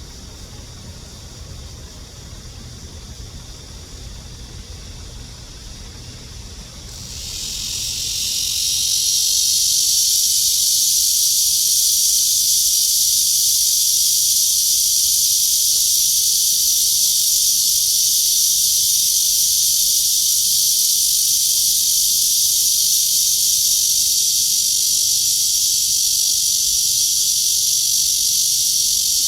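Cicada song starting about seven seconds in: a loud, steady, high-pitched buzz that swells up over a couple of seconds and then holds. Before it there is only a low rumble.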